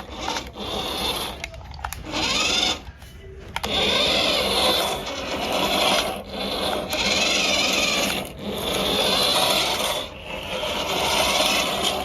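Small electric motor and gears of a remote-control toy school bus whirring as it is driven, in several runs of one to two seconds with short pauses between them. The whine's pitch rises and falls with speed.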